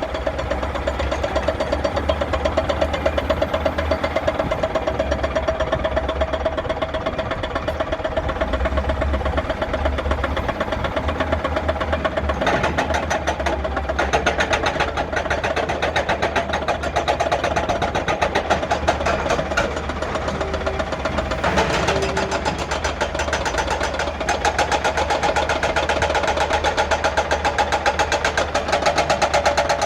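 Hyundai HX220S excavator's diesel engine running steadily with a fast, even knock. Twice partway through it turns harsher and louder for a few seconds.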